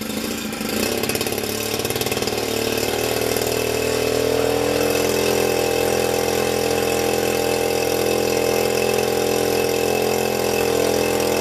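Zenoah GT80 twin-cylinder two-stroke model-aircraft engine with a Bisson can-type muffler, spinning its propeller. Over the first few seconds it rises in pitch as it is throttled up, then holds steady at full throttle, at about 6,000 to 6,100 rpm.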